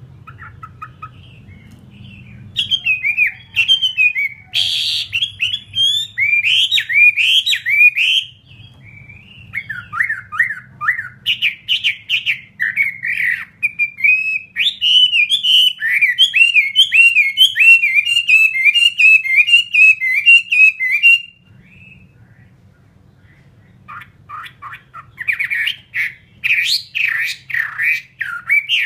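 Chinese hwamei singing in long, loud runs of rapid, varied whistled notes that slide up and down. It pauses briefly about eight seconds in, then falls quiet for a couple of seconds before starting up again near the end. A faint low hum lies underneath in the gaps.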